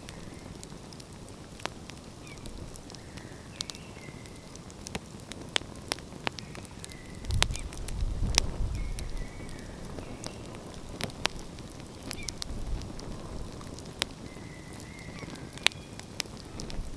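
Wood fire crackling, with sharp pops at irregular intervals. A low rumble swells for a couple of seconds about seven seconds in.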